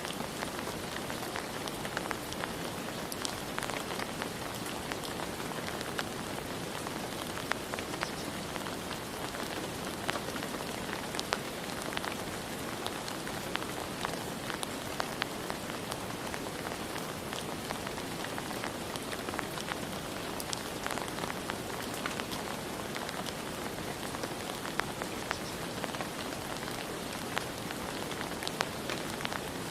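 Steady rain falling, with scattered sharp drips and drop ticks over an even hiss.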